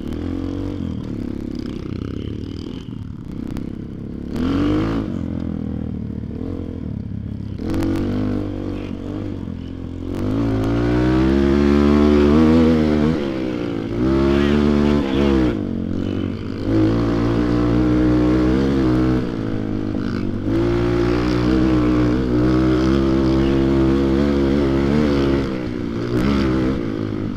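Motoland XR250 enduro motorcycle's single-cylinder four-stroke engine riding off-road. The revs rise and fall repeatedly as it pulls through the gears, and the engine gets louder and works harder from about ten seconds in.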